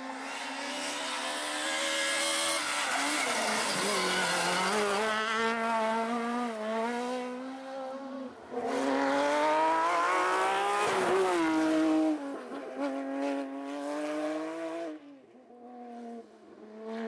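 Rally car engine revving hard at full throttle, its pitch climbing and dropping as it shifts gears, loudest as it passes and then falling away near the end.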